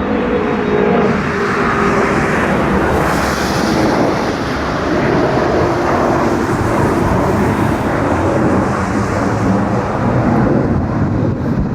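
Jet airliner engines, a loud steady rush of noise with a high hiss that swells and fades in the middle.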